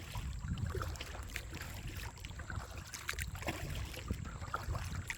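Kayak being paddled: paddle blades dipping and water dripping in scattered small splashes, over a low rumble of wind on the microphone.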